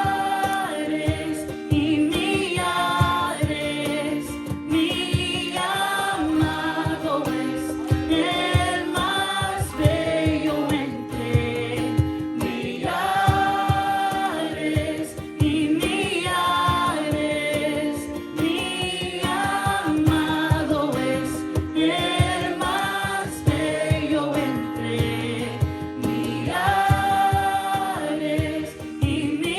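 Group of voices singing a worship song together over a rhythmic instrumental accompaniment.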